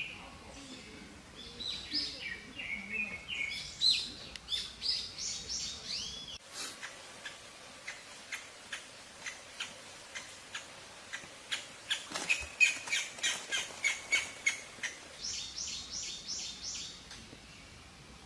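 Small songbird chirping in many short, high notes, with a fast run of rapid chirps a little past the middle.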